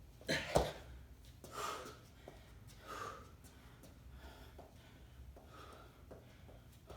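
A person breathing hard from exertion. Two sharp, loud gasping breaths come near the start, then a few more breaths about every second and a half, growing fainter.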